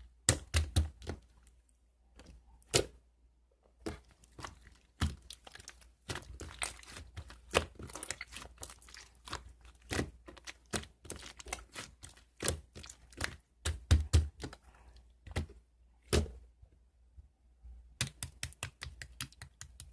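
Hand-played slime clicking and popping irregularly as it is squeezed and stretched, with a few short pauses and a quick run of clicks near the end.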